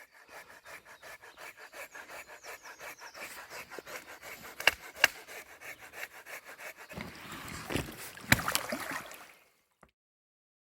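A hand saw cutting through wood, with fast, even strokes at about five a second. About seven seconds in, the strokes turn louder and rougher, with a few sharp cracks, and then cut off.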